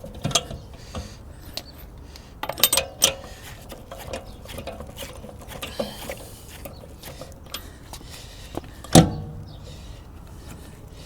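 Intermittent clinks and knocks of metal tools and parts being handled during work on a car wheel, with one loud clank about nine seconds in that rings briefly.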